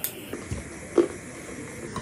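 Close-miked chewing of a spoonful of chatpate, a spicy puffed-rice snack mix, with a click at the start and one louder crunch about a second in.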